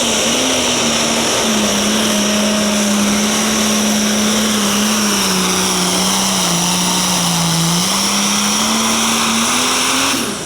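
Turbocharged diesel pulling tractor's engine running at full load. Its pitch sags as the engine lugs down about halfway through, then climbs back, with a high turbo whistle over it. The sound drops off abruptly near the end.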